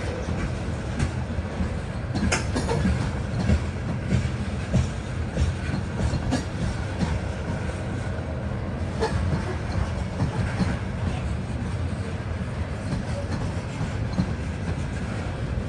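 Loaded coal hopper cars of a unit coal train rolling past slowly up a grade, a steady rumble with irregular clacking and clicking of the wheels on the rails.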